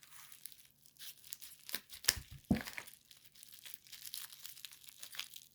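Packing tape being torn and peeled off a coin package by hand, with crinkling of the wrapping: a run of irregular crackly rips, the sharpest a little after two seconds in.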